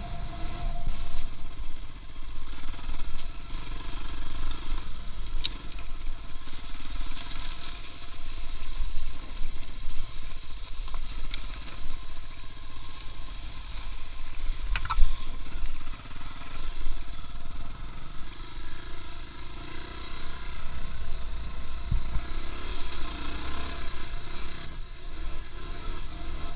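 Motor vehicle on the move: a steady low engine and road rumble with a few short rattles or knocks.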